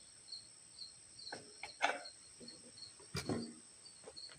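Crickets chirping steadily, about two high chirps a second, with a few scattered clicks and knocks, the loudest near the middle.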